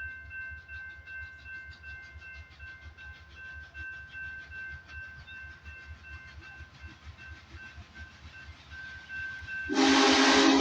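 Union Pacific Big Boy articulated steam locomotive rolling slowly past, with a low rumble, a fast regular clatter and a bell ringing over and over. A much louder sound cuts in suddenly about a second before the end.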